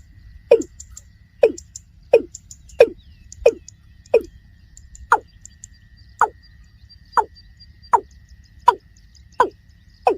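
Watercock calling: a series of short, deep notes, each falling in pitch, repeated steadily a little more than once a second.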